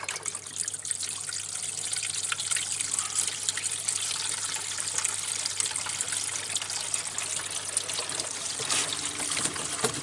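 Dishwasher pumping out: water running and trickling steadily through the drain pipework, with a low tone coming in near the end.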